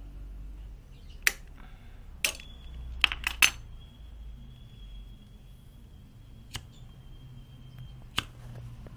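Metal tools clinking and tapping: sharp clicks about seven times, three of them in quick succession near the middle, over a low hum and a faint, steady high whistle.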